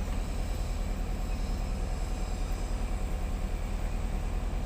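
Tugboat engine running steadily: a heavy, low drone with a fast, even throb.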